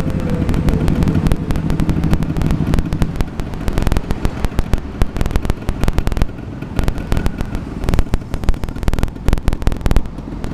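Two-stroke motorcycle engine running through a racing expansion-chamber exhaust, fairly steady for about three seconds and then breaking into rapid, irregular popping and crackling.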